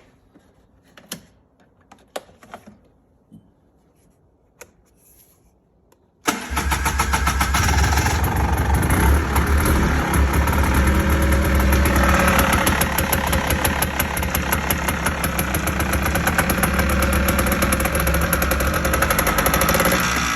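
Engine cold start: a few faint clicks and knocks, then about six seconds in the engine fires at once and settles into steady running, its speed wavering a little.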